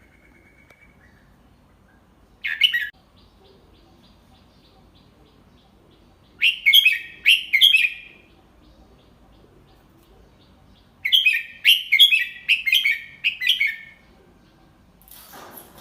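Red-whiskered bulbul singing in separate phrases: one short note about two and a half seconds in, a phrase of several quick notes from about six to eight seconds, and a longer run of rapid notes from about eleven to fourteen seconds. A faint rustle follows near the end.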